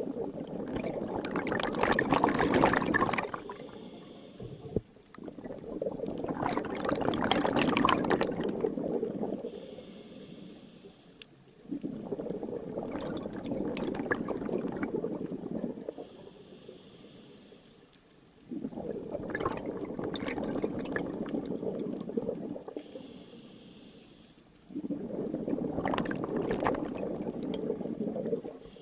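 Scuba diver breathing through a regulator underwater: five bubbling exhalations about six seconds apart, each followed by a short hiss of air through the demand valve on the inhale.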